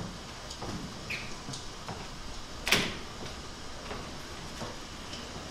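Scattered light knocks and bumps on a stage, with one sharper, louder bang nearly three seconds in, like a door or set piece knocking.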